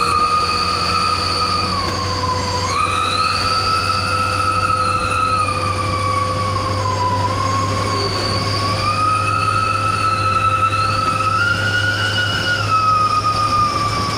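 Truck's 'wolf' whistle exhaust (knalpot serigala) howling: a high whistle with overtones that glides down and back up several times as engine speed changes, over a steady low engine drone.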